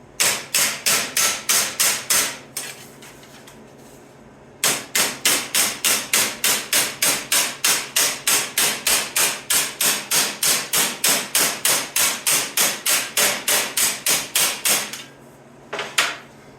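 Hand hammer striking sheet steel to shape a patch panel, in steady blows about four a second. A short run of blows is followed by a pause, then a long even run, and a single last blow near the end.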